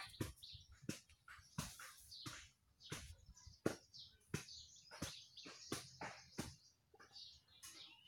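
Faint chirping of small birds in the background: a run of short, sharp chirps, one or two a second.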